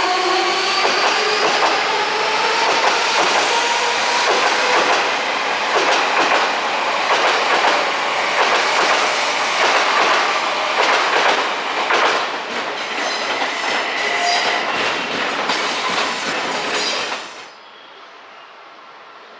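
Odakyu 4000 series electric train's IGBT-VVVF inverter whining with a rising pitch as it accelerates, giving way to running noise and a rhythmic clatter of wheels over rail joints as the cars go by. The sound cuts off abruptly near the end.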